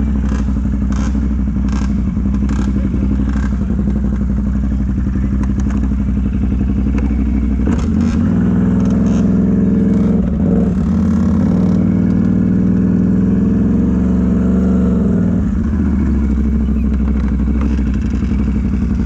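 Mega truck's engine running loud and steady in a mud pit, revving harder from about eight seconds in until about fifteen seconds, then easing back. A few knocks and clatters come in the first seconds.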